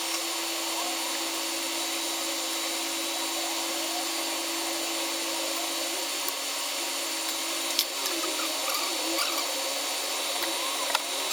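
Laser back-glass removal machine running on an iPhone 13 Pro, a steady whirring hum with a high, even whine over it. A few sharp clicks and faint wavering sounds come in over the hum in the second half.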